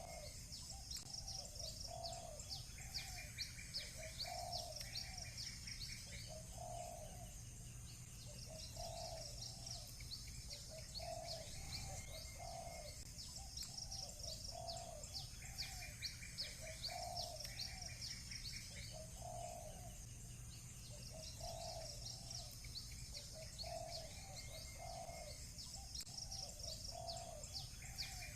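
A dove cooing over and over in low, soft phrases about once a second, while small birds chirp and trill high above it almost without a break. A short buzzy call comes twice, a few seconds in and again past the middle.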